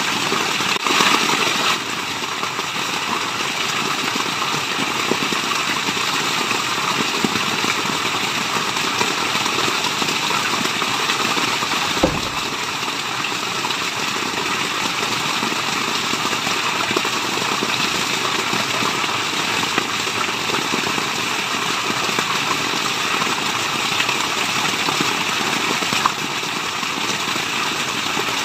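Steady rushing of a waterfall, an even white-noise hiss that does not change, with one sharp click about halfway through.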